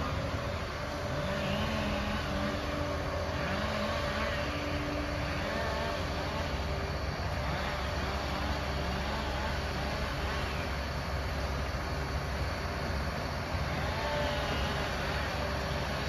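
Liebherr 746 crawler dozer's diesel engine running steadily under load, with short squeals that glide up and down in pitch over it.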